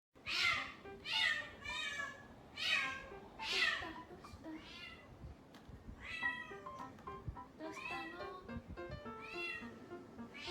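A domestic cat meowing over and over, about a dozen short meows that each rise and fall in pitch. The first five are the loudest and come in quick succession, and softer meows follow. Background music plays underneath.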